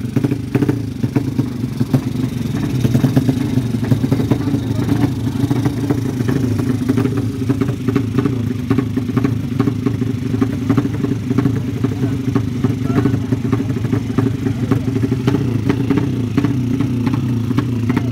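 Motorcycle engine running steadily at a fast idle, with irregular clicking and rattling over it.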